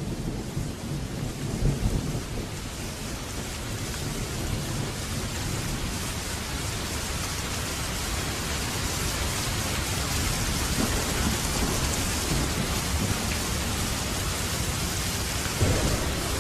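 Heavy rain falling with rumbling thunder. The rain's hiss grows stronger in the second half, and a short low thump comes near the end.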